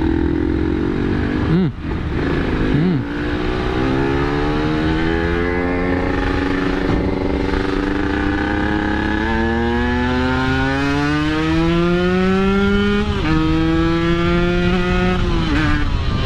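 Yamaha RX-King 135 cc two-stroke single with an aftermarket exhaust, under way. It gives two short throttle blips about two and three seconds in, then climbs slowly in pitch as it pulls. The revs drop suddenly about thirteen seconds in, as at a gear change, and fall again near the end.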